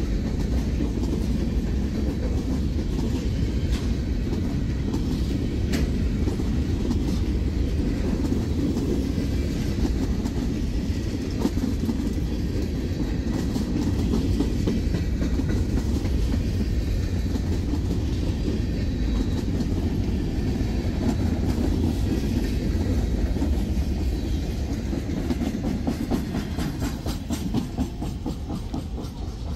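Freight train of boxcars and covered hopper cars rolling past: a steady noise of steel wheels on rail with scattered clacks. It eases off slightly near the end.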